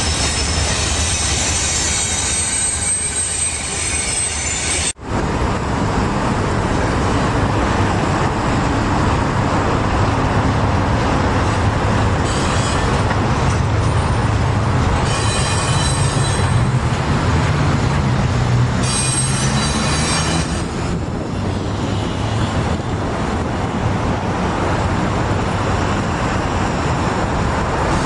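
Double-stack container cars of a Canadian National freight train rolling past: a steady rumble of steel wheels on rail, with short spells of higher wheel squeal now and then. The sound cuts out for a moment about five seconds in.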